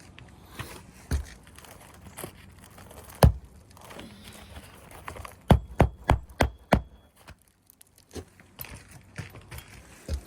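Hammer knocking roofing nails into an asphalt shingle: a single sharp strike, then a quick run of five blows, then a few lighter taps.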